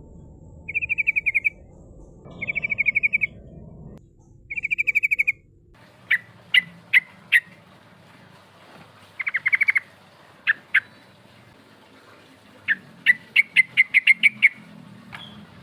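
Yellow-vented bulbul (trucukan) calling. First come three short, fast, rippling trills. Then there are separate sharp clipped notes, another brief trill, and near the end a quick run of notes.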